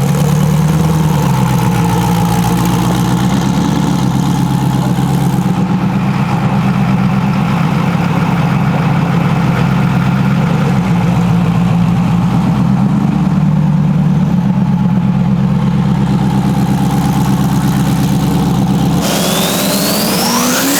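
Vehicle engine idling steadily and loudly, its pitch shifting slightly now and then. Near the end the sound cuts abruptly to a rising whine, as of a vehicle accelerating.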